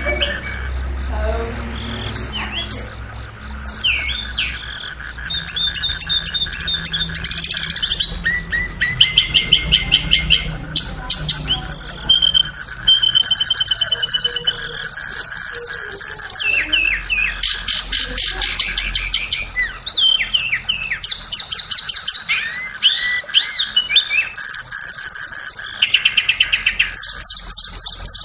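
Flowerpecker (tledekan) song: high-pitched chirps and rapid trills repeated in quick bursts one after another, over a steady background hum.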